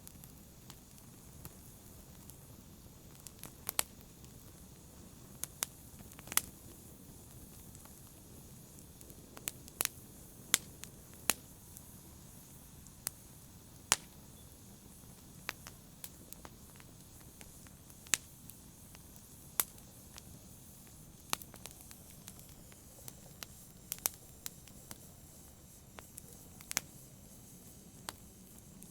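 Wood fire burning: a steady low hiss with sharp, irregular pops and crackles, a loud pop every second or two among many smaller snaps.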